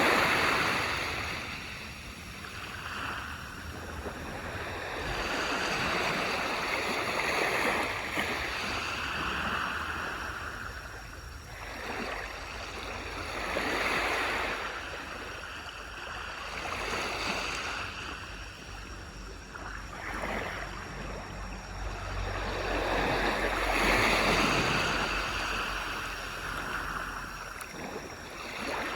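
Waves breaking and washing up a beach: the surf swells and falls back every few seconds, with the loudest surges at the start and near the end.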